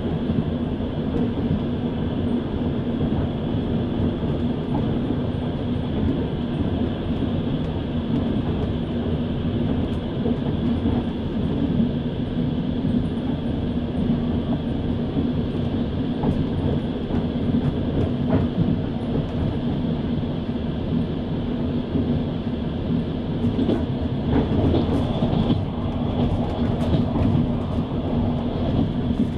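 Passenger train running at speed, heard from inside the carriage: a steady running noise of the wheels on the rails.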